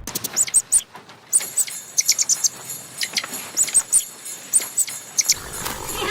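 Small birds chirping: many short, high chirps, some in quick runs of three or four.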